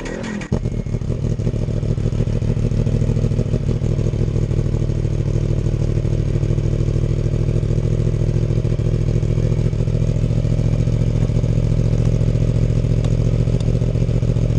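A Ducati Scrambler Cafe Racer's 803 cc air-cooled L-twin catches about half a second in after a brief rising crank, then idles steadily.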